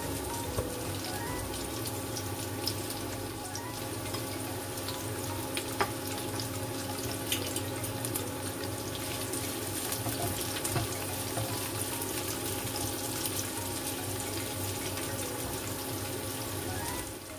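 Sliced shallots, garlic and red chilies sizzling steadily in hot oil in a wok as they sauté, with a few small clicks.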